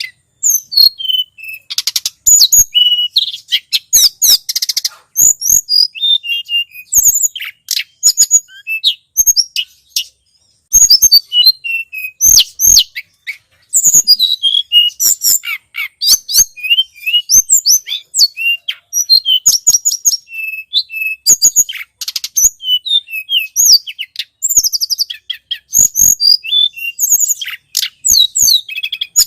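Recorded song of the tledekan gunung, a small songbird, played as a bird-trapping lure call: dense runs of quick, high chirps and trills with a few short breaks.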